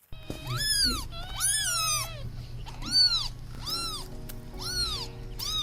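Kittens meowing: about six short, high-pitched meows in a row, each rising and then falling in pitch, some close together.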